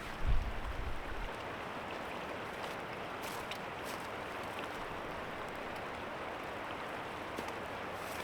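A small creek running with a steady rushing sound, with a brief low rumble of wind on the microphone in the first second.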